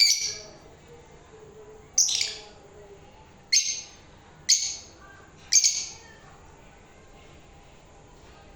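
Small pet parrots giving five short, shrill calls a second or so apart, then going quiet for the last couple of seconds.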